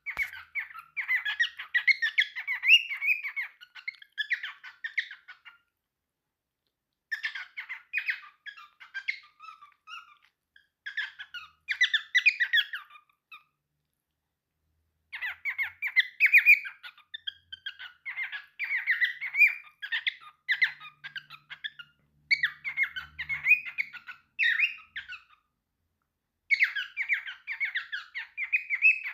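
Cockatiel chattering and singing in bursts of rapid chirps, squeaks and short whistled notes. Each burst lasts a few seconds, with brief pauses between them.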